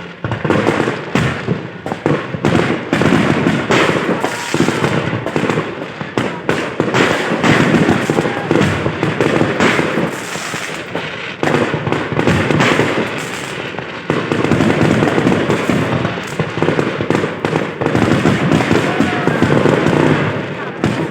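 Fireworks display: a dense, unbroken barrage of shells bursting with bangs and crackle in rapid succession.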